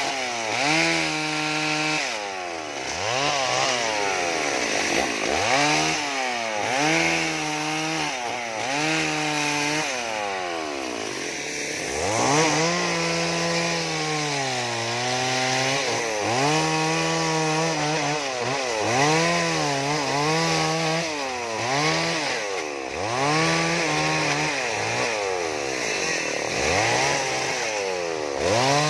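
Two-stroke chainsaw cutting wood, carving a sculpture. The engine revs up and drops back again and again, in short bursts with one longer cut a little under halfway.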